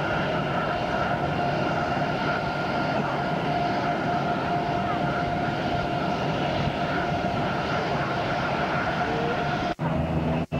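Airbus A320 jet engines running with a steady roar and a high whine. The sound cuts out briefly twice near the end.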